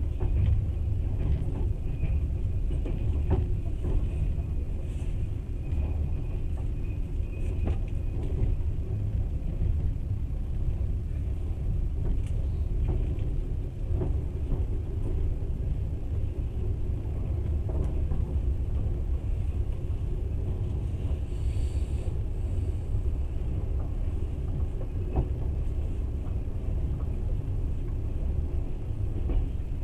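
Passenger train running along the track: a steady low rumble with a few faint knocks.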